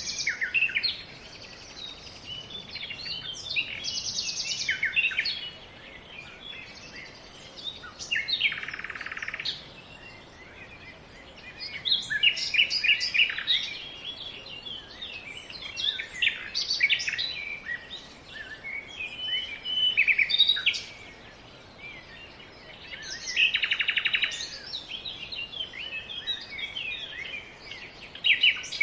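Songbirds singing: bursts of chirping song phrases every few seconds with short pauses between them, some phrases ending in buzzy trills, over a faint steady background hiss.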